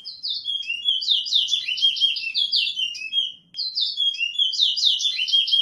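Caged towa-towa seed finch singing: two long phrases of quick, sliding whistled notes, each about three seconds, with a short break between them.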